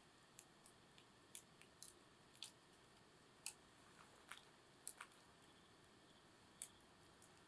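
Wood campfire crackling quietly: sparse, irregular sharp pops over a faint steady hiss.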